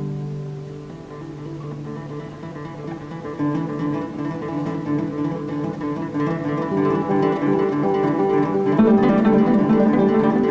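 A quartet of classical guitars playing: a held chord dies away about a second in, then layers of repeated plucked notes build up, growing louder and denser near the end.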